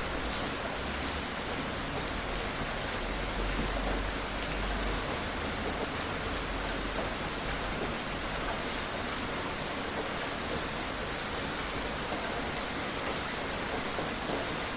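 Steady gentle rain falling on surfaces, an even hiss with scattered drop ticks. A low rumble swells briefly about three seconds in.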